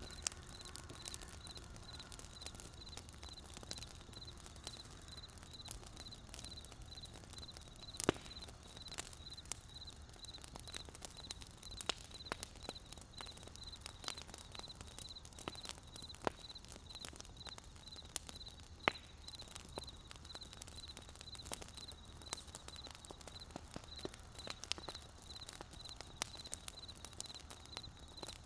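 Wood campfire crackling: irregular sharp pops and snaps, with a few louder cracks, over a low steady rumble. A faint high, rapidly pulsing tone runs throughout.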